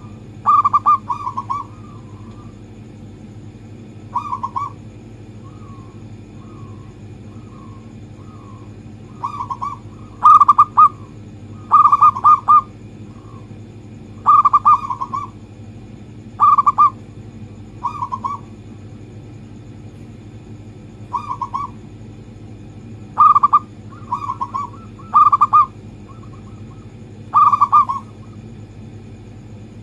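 Zebra dove cooing: short bursts of quick, rattling coo notes, each about a second long, repeated irregularly with softer coos between, over a steady low hum.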